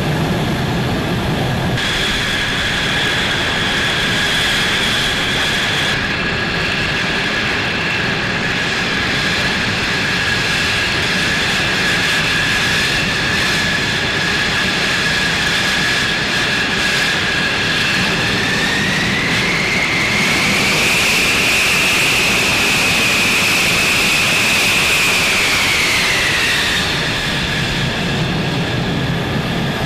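Fighter jet engine running with a steady rush and a high whine. About two-thirds of the way through, the whine rises in pitch, holds, then falls back near the end as the engine spools up and down.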